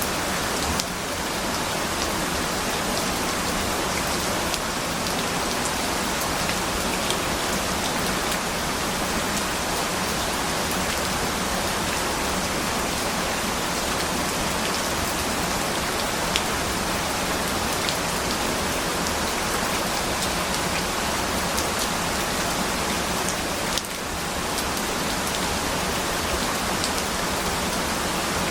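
Steady rain falling: a dense, even hiss with scattered sharp drop ticks. The level dips briefly about a second in and again near the end.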